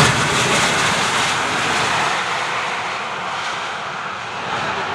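Aircraft engine noise from a passing flypast: a wide roar, loudest at the start and steadily fading as the aircraft moves away.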